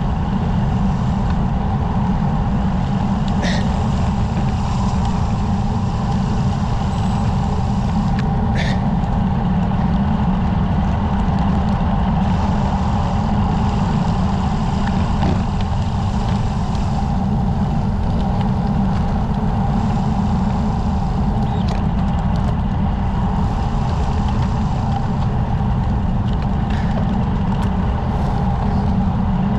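Wind rushing over the bike-mounted camera's microphone on a fast road-bike descent: a loud, steady low rumble, with a few brief sharp high chirps in the first several seconds.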